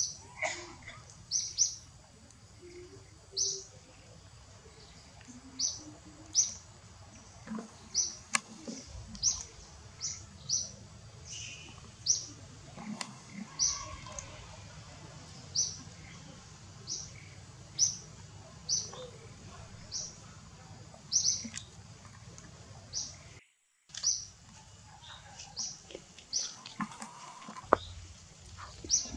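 A small bird chirping repeatedly: short, high-pitched notes about once a second, with a brief dropout about two-thirds of the way through.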